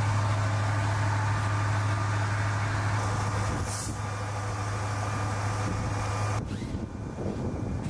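Steady low engine hum that cuts off abruptly about six and a half seconds in, giving way to rough wind-like noise.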